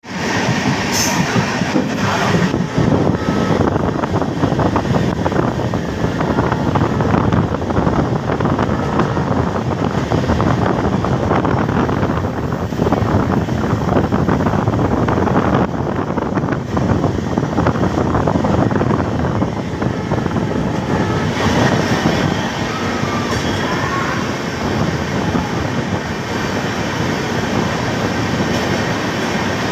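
Passenger train running along the track: a steady rumble of wheels on rails with continual rattling from the carriage.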